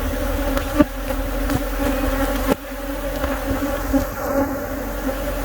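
A disturbed colony of honeybees buzzing around their opened nest, a dense steady hum. A few light knocks sound within the first few seconds.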